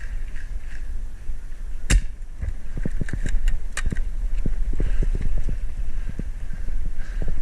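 Movement and handling noise on a body-worn camera during an airsoft game: one sharp crack about two seconds in, a few lighter high clicks, then a quick run of soft low thumps, over a steady low rumble of wind on the microphone.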